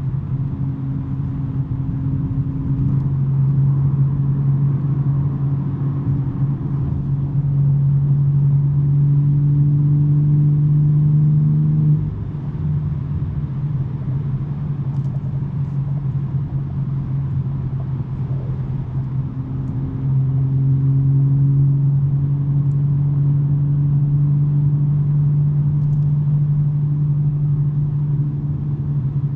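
2023 BMW M3 G80's twin-turbo inline-six with a non-resonated mid pipe, running at a steady engine speed under light load with a steady exhaust hum. About twelve seconds in it suddenly gets quieter as the throttle eases, and about twenty seconds in it comes back up to the louder steady hum.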